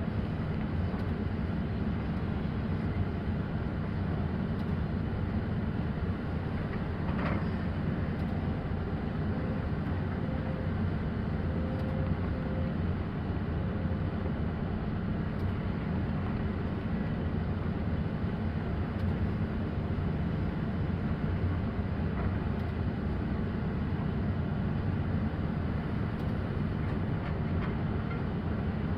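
XCMG excavator's diesel engine running steadily while it works, with a brief sharper sound about seven seconds in and a faint whine for a few seconds after.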